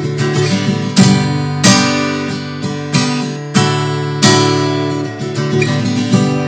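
Acoustic guitar playing an instrumental passage with no singing: ringing chords with a sharp, accented chord every second or so.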